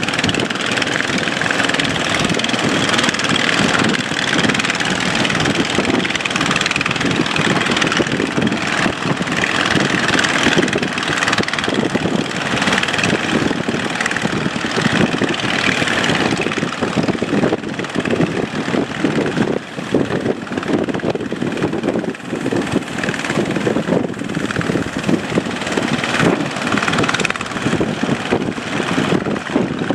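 A boat's engine running steadily under way, under a loud, constant rushing noise that rises and falls slightly.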